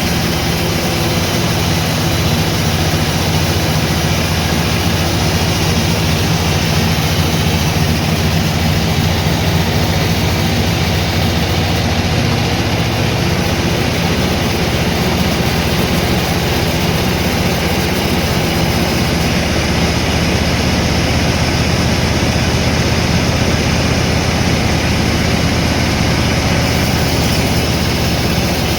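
Sawmill machinery running steadily: a constant engine drone under a steady haze of machine and saw noise, with no breaks.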